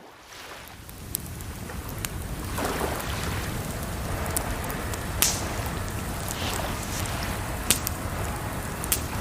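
Campfire crackling with scattered sharp pops, layered over a steady rush of running water. The sound fades in over the first second or so.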